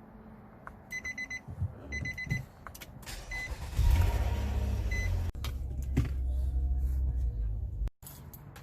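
A vehicle's electronic warning chime sounds in two short quick runs of beeps, then single beeps. About four seconds in, the engine starts and runs at a steady idle.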